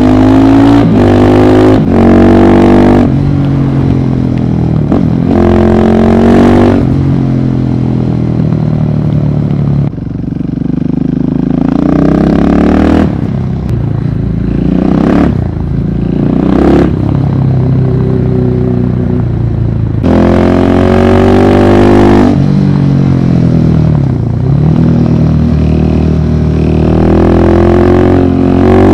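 Single-cylinder dirt/supermoto motorcycle engine under way, revs climbing and dropping again and again as it accelerates and shifts through the gears, with a few short sharp throttle surges.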